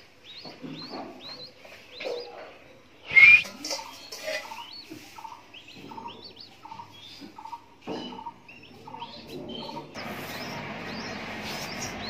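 Nestling bird cheeping repeatedly in short rising chirps, with one much louder shrill call about three seconds in. After about ten seconds a steady hiss of background noise takes over.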